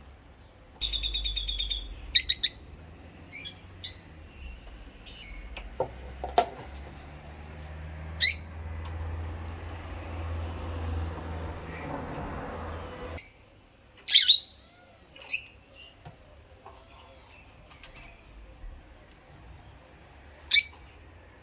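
Rosy-faced lovebirds calling: a buzzy chattering call about a second in, then short, sharp chirps at irregular intervals. A low hum sounds underneath for the first half and cuts off suddenly.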